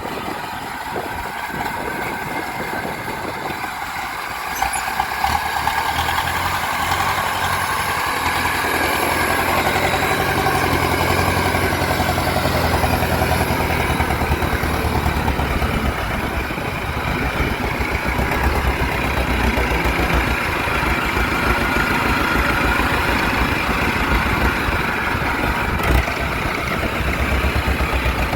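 Kubota DC70 combine harvester's diesel engine running steadily, growing louder about five seconds in and then holding.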